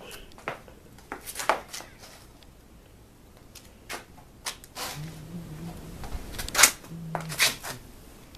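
Scattered light taps, clicks and rustles of household handling noise, the sharpest about two-thirds of the way through, with two short low hums of a person's voice just before and after it.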